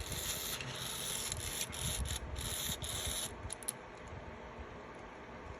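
Handling noise: a run of rubbing, scraping strokes over about three seconds, then fainter, as parts are worked by hand.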